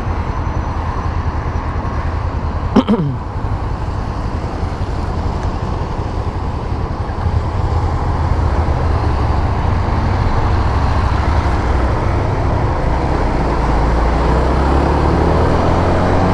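A 150cc motorcycle under way: steady engine, road and wind noise, getting a little louder about seven seconds in. A brief sharp sound falling in pitch cuts through about three seconds in.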